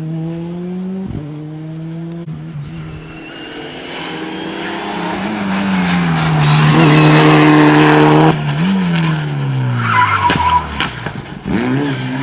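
Rally car at full throttle on a special stage, its engine note building and growing louder as it comes past, held high, then cut sharply just after the middle as the driver lifts. The engine pitch then falls quickly with a brief tyre squeal under braking, and a second car's engine rises near the end.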